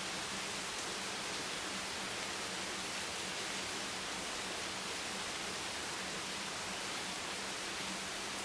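Steady, even hiss of heavy rain, close to white noise, with no single drops standing out.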